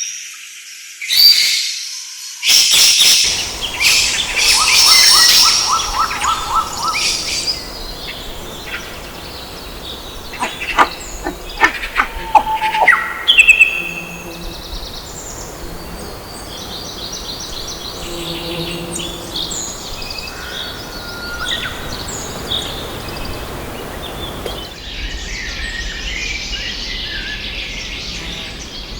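Birds chirping and calling in a natural soundscape, with many short chirps and whistles. A run of loud, sharp calls comes about ten to fourteen seconds in, and the background changes abruptly twice.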